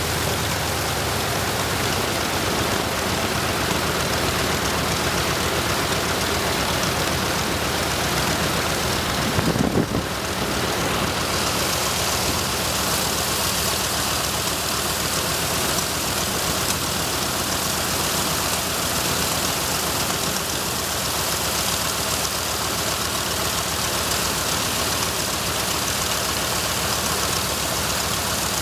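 Mitsubishi A6M5 Zero fighter's original Nakajima Sakae 21 fourteen-cylinder twin-row radial engine running steadily on a ground run. There is a brief louder burst about ten seconds in, after which the sound holds steady again with a somewhat brighter tone.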